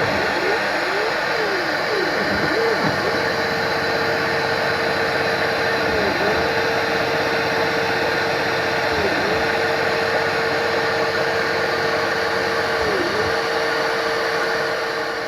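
A metalworking machine tool running steadily with a hum, its pitch dipping briefly and recovering several times in quick succession at first, then about every three to four seconds.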